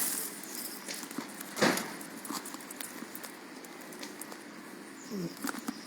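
Badnjak bonfire crackling, with scattered small snaps and one louder crack about two seconds in.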